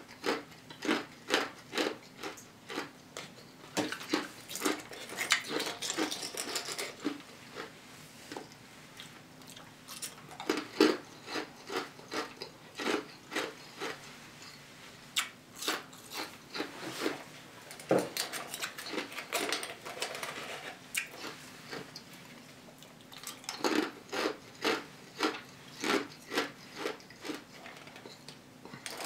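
Ice being crunched between the teeth close to the microphone: quick runs of sharp, irregular crunches with short pauses between runs. It is ordinary ice rather than the eater's usual 'special ice'.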